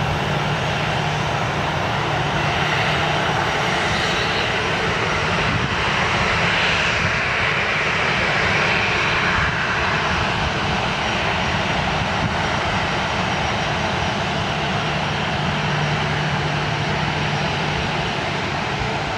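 Airplane engines running loud and steady: a broad rushing noise over a low, steady hum.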